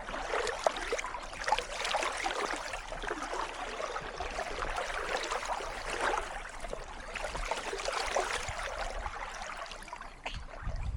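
Kayak paddle blades dipping and splashing in calm water, stroke after stroke, swelling about every two seconds, with small drips and trickles between strokes.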